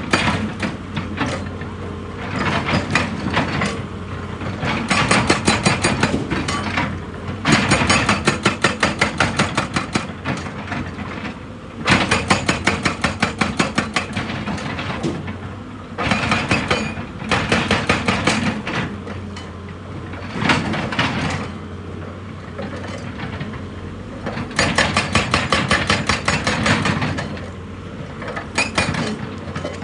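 Heavy rock-working machinery pounding rock with rapid strikes, about six a second, in bursts of two to four seconds with short pauses between them. A steady engine hum runs underneath.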